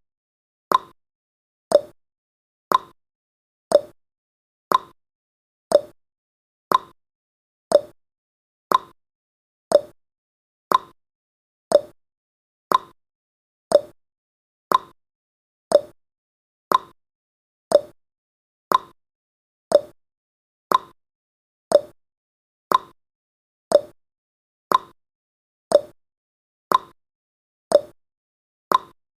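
Clock tick-tock sound effect: sharp ticks about once a second, alternating between a higher and a lower pitch.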